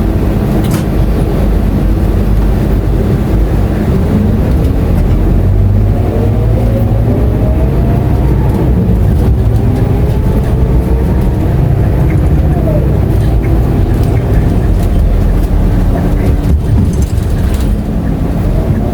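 Scania K230UB city bus's five-cylinder diesel engine heard from on board, accelerating with a rising pitch for several seconds. The pitch drops briefly a little past the middle and climbs again near the end, with a steady low rumble throughout.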